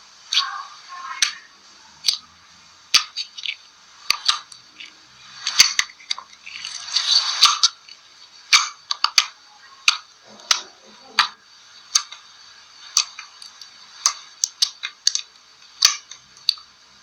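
Slime being squeezed and poked, making irregular sharp clicks and pops with a few longer squelching crackles.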